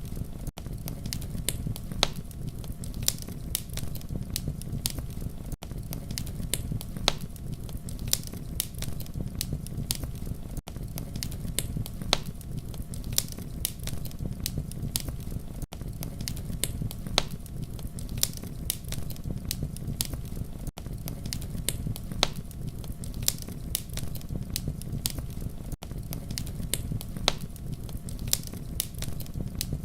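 Campfire burning with a steady low rumble and frequent sharp, irregular crackles and pops of burning wood, with a brief dip in the sound about every five seconds.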